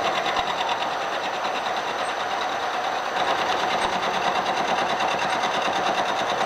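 Milling machine running with its end mill just kissing the metal of a bracket on a rotary table, scribing a light arc: a steady whir with a fast, even chatter.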